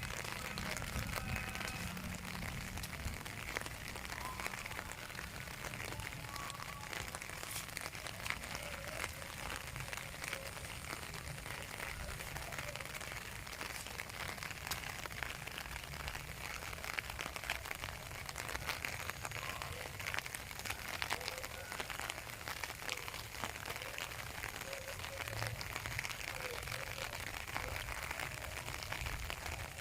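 Steady rain falling, a dense patter of drops with a low rumble underneath.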